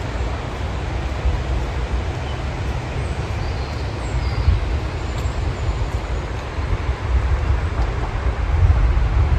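Wind buffeting the microphone, an irregular low rumble, over a faint even hiss of rain, with a few faint bird chirps about the middle.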